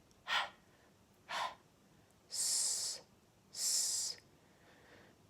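A woman saying phonics letter sounds without using her voice: two short breathy puffs, then two longer hisses, each followed by a pause.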